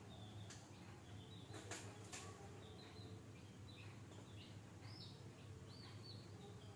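Faint, quick bird chirps, a few each second, over a low steady hum, with a few soft clicks in the first couple of seconds.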